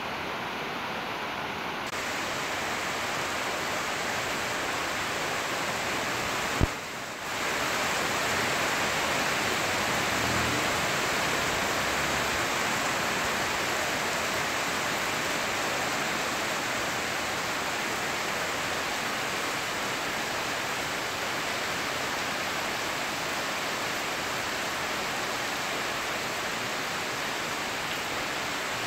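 Steady rain falling, an even hiss of rain on roofs and pavement. About seven seconds in there is a single sharp click and the sound drops out for a moment before the rain returns slightly louder.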